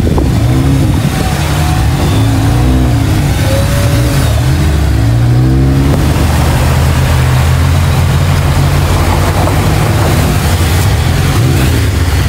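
Off-road 4x4's engine revving hard while working through deep bog mud: its pitch rises and falls several times over the first half, then it holds a steadier high run.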